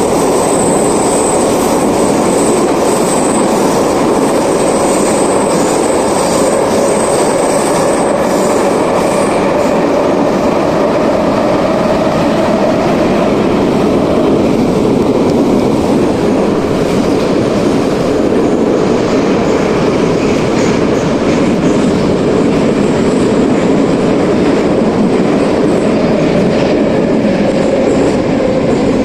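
81-717 metro car running at speed through the tunnel, heard from inside the car: a loud, steady rumble of wheels and running gear. A whining tone slowly rises in pitch and then falls again.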